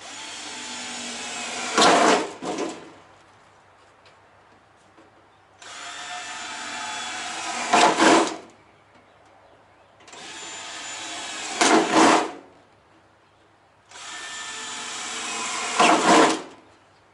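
Power drill boring four holes one after another, each run a few seconds of steady whirring that ends in a brief louder burst as the bit cuts through.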